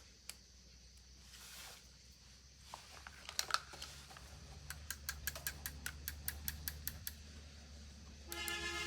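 A few sharp clicks, then a steady run of light, evenly spaced mechanical clicks, about five a second, for a couple of seconds, from bicycle repair work. Music with a held chord comes in near the end.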